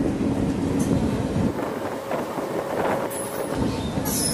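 Passenger train rolling slowly alongside a station platform, a steady rumble and clatter of the coaches, with two short high-pitched squeals near the end.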